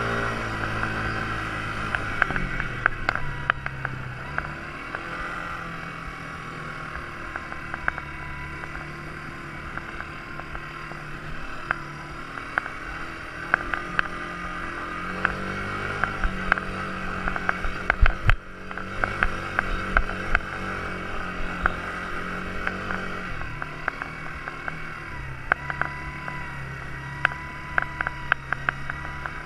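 Quad bike engine running, its pitch rising and falling several times as the throttle changes, with frequent short knocks and clicks, the loudest about eighteen seconds in.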